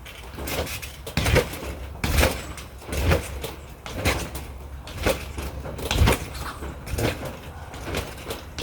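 Person bouncing on a wet trampoline: a regular thud from the mat about once a second.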